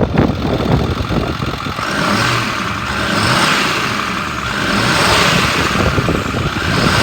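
A 6.4-litre Power Stroke V8 diesel in a 2010 Ford F-550 is revved up from idle. Its speed swells up and back down about three times, roughly every two seconds. It revs up smoothly, which the seller takes as a sign of a healthy engine.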